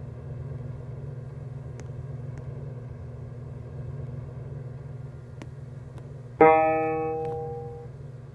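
A steady low hum of elevator equipment, then about six seconds in a single loud elevator chime that rings out and fades over about a second and a half.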